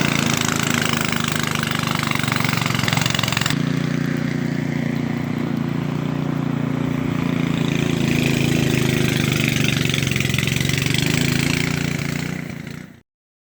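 A small engine running steadily at a constant speed. The sound shifts abruptly about three and a half seconds in, then fades out near the end.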